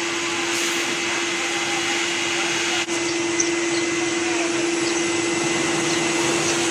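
Vacuum cleaner running steadily while the inside of a car is vacuumed: a constant rush of air with a steady hum, dipping briefly about three seconds in.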